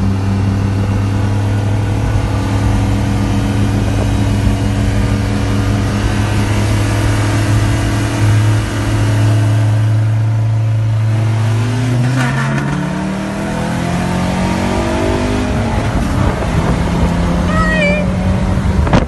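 Mazdaspeed 3's turbocharged four-cylinder, running on E85, heard from inside the cabin: a steady drone for about twelve seconds, then revving up hard with the pitch climbing as it accelerates in the race, holding high near the end.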